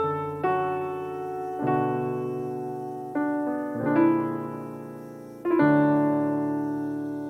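Solo piano playing a slow, gentle piece: chords are struck every second or so and left to ring and fade.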